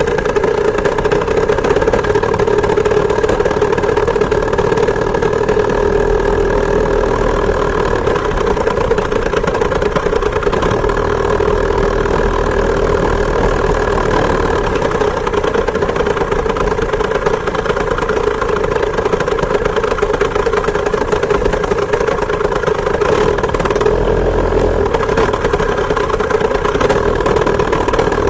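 Chainsaw engine on a homemade moped, a small two-stroke, running steadily at a constant, fairly high speed.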